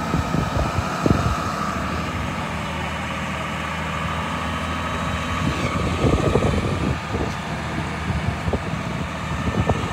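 A motor vehicle's engine running steadily, with a thin steady tone above the low hum and scattered knocks and bumps in the second half.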